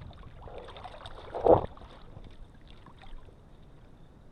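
A single dull thump about a second and a half in, from a redfish being handled aboard a fishing kayak, over a low haze of wind and water noise.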